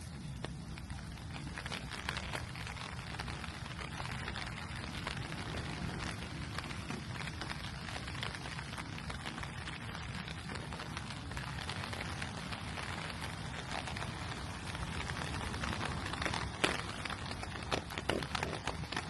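Steady rain falling, with a few sharper drip taps near the end.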